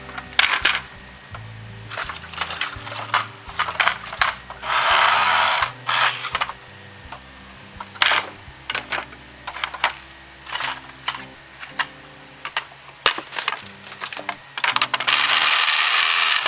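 Dry bamboo canes knocking and clacking together as they are handled, with two longer rustling scrapes, about 5 seconds in and near the end, over light background music.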